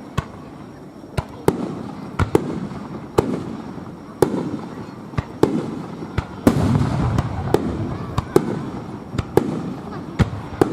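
Japanese aerial firework shells bursting one after another, a sharp bang about once a second, each followed by a rolling, echoing rumble. The rumble is heaviest about six to eight seconds in.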